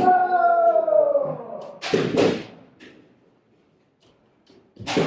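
A drawn-out kendo kiai shout that slowly falls in pitch. About two seconds in comes a sharp impact with a short shout, and another sharp knock comes near the end.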